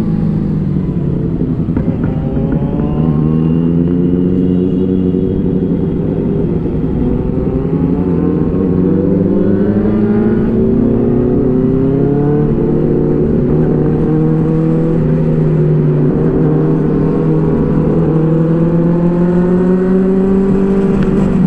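Several inline-four superbikes on aftermarket exhausts riding together, among them a Kawasaki Z900 and a Benelli 600i. Their engines rise and fall in pitch through throttle and gear changes over a steady low engine note.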